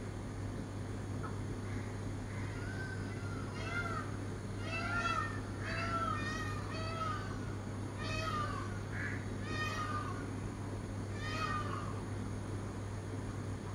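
Birds of a Sri Lankan dawn chorus giving repeated short, rising-and-falling calls in quick runs, from about a quarter of the way in until near the end, over a steady low hum.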